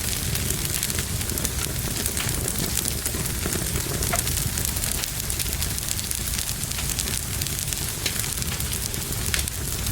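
Fire burning in a fireplace, crackling with frequent small pops over a steady low rumble.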